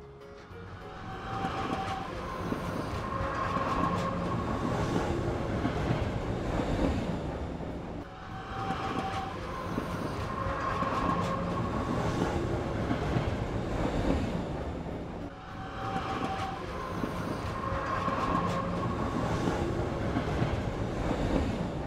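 Recorded train sound effect playing in a loop: clattering wheels with short whistle-like tones, the same pattern repeating about every seven and a half seconds.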